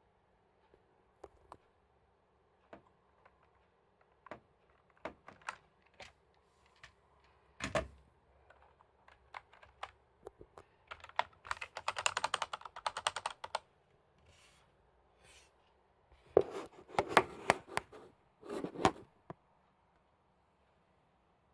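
Typing on a computer keyboard. Scattered single keystrokes give way to a fast run of typing about halfway through, and a louder cluster of keystrokes follows near the end.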